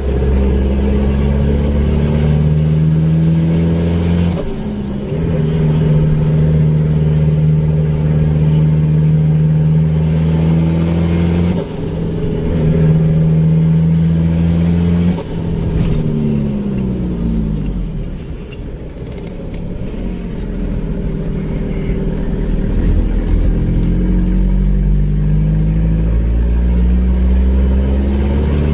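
Isuzu Panther turbo-diesel engine revved and held at high revs, its turbo whistle climbing as it spools. The throttle is let off suddenly about 4, 11.5 and 15 seconds in, with turbo flutter. The revs then sink toward idle and build again near the end.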